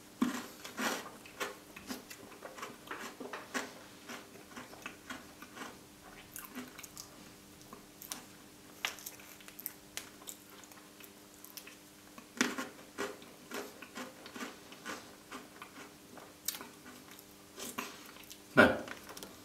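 Close-miked mouth sounds of someone eating a soft chocolate truffle dessert with whipped cream: irregular wet chewing and lip smacks, a few louder than the rest, over a faint steady hum.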